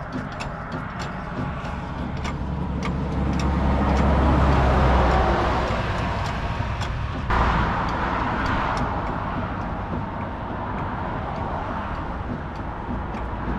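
Heavy truck's diesel engine running, with rapid regular ticking over it in the first few seconds. The sound swells about four seconds in and changes abruptly about seven seconds in.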